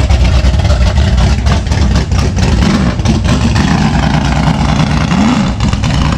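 Car engine running nearby, its note wavering and rising briefly before dropping back near the end, over a heavy low rumble.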